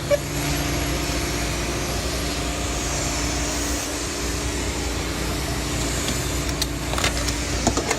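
A car's engine running steadily, a constant low hum under an even rush of noise, with a few faint clicks near the end.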